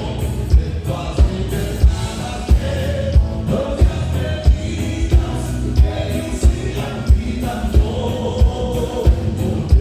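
Live band playing a gaúcho song with singing, over a steady kick drum beating about one and a half times a second.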